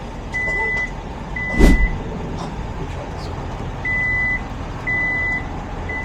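Genesis power liftgate's warning beeper sounding a steady high tone, about half a second per beep and about one a second, in two sets of three with a pause between. The gate beeps but does not close, running on jump-box power with a dead battery. A single thump sounds about a second and a half in.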